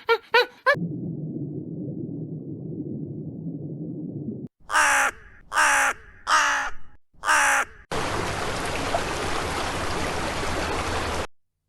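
A low rumbling noise, then four loud, harsh caw-like bird calls in a row, then a steady hiss that cuts off suddenly. Each part starts and stops abruptly.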